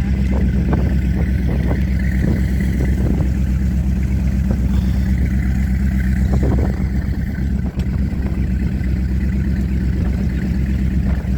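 Four Winns Liberator powerboat's engine running steadily under way, a loud, even low drone. A few short knocks come in the first seconds and again about six and a half seconds in.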